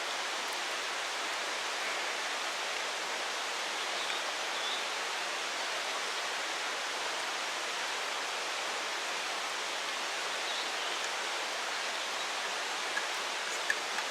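Steady rushing of flowing water, like a nearby stream, constant throughout, with a couple of faint small clicks near the end.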